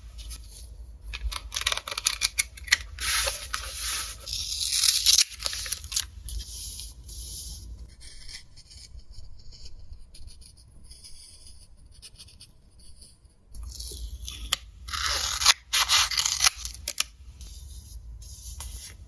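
Close-up handling sounds: irregular rustling, scraping and small clicks, busiest in the first few seconds and again toward the end, over a steady low hum.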